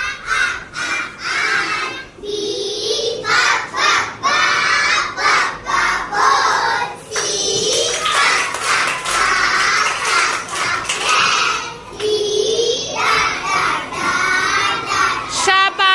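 A group of young girls reciting a rhyme aloud together in a sing-song chant.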